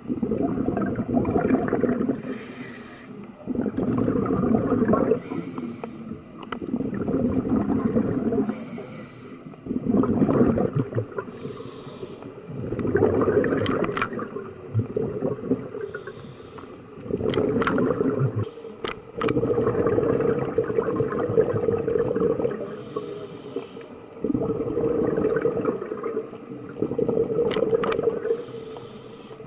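A scuba diver breathing through a regulator. Each breath is a short hissing inhale, followed by a longer rumbling, bubbling exhale, repeating every three to four seconds. A few sharp clicks come in the middle.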